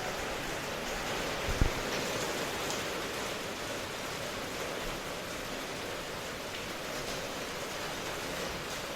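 Steady rainfall, an even hiss with no pattern, with one brief low thump about a second and a half in.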